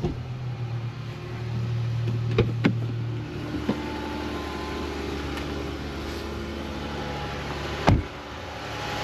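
Dodge Charger's 3.6 L V6 idling steadily just after starting, running on freshly fitted spark plugs and ignition coils; the idle note settles a little lower about three seconds in. A couple of light clicks come midway, and one sharp knock comes near the end.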